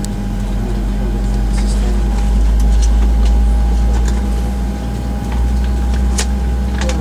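Boeing 737-900ER cabin noise: a steady hum with two constant tones over a deep rumble that swells for a couple of seconds midway and then eases, with a few faint clicks and murmurs from the cabin.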